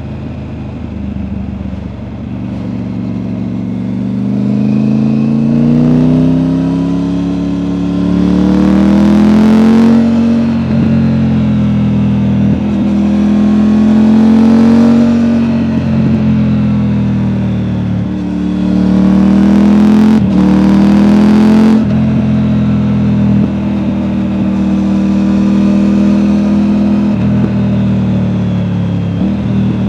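Triumph Tiger 900's three-cylinder engine through an Akrapovic exhaust, heard from the rider's seat while accelerating. The engine note rises and drops back at each of about three upshifts, then holds a steady cruise.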